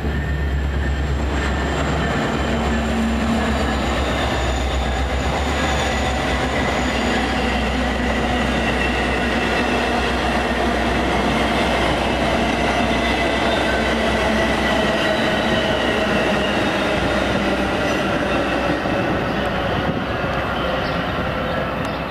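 Train passing close by: a steady rumble of wheels on the rails over a low diesel locomotive hum, with a faint high wheel squeal.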